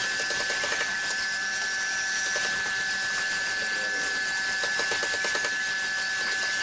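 A small electric motor runs steadily with a high whine, broken by three short bursts of rapid clicking.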